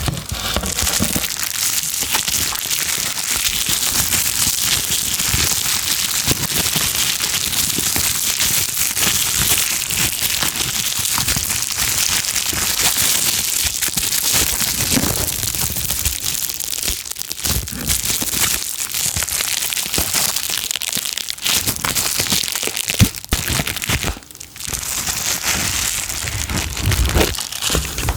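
Packaging material crinkled and crumpled close to the microphone: a dense, continuous crackle full of small clicks, dropping away briefly about 24 seconds in.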